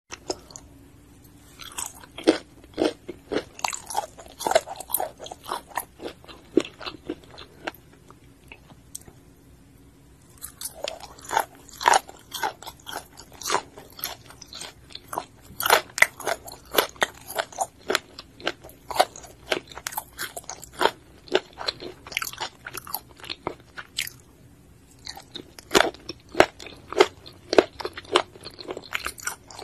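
Close-miked eating sounds: a person biting and chewing food, with sharp crunches and mouth clicks in quick runs, broken by two short pauses.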